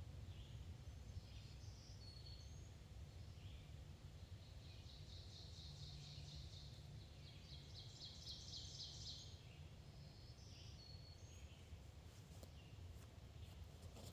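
Faint songbirds: scattered short high chirps, and a rapid trill of quickly repeated notes lasting several seconds in the middle, over a low steady background rumble.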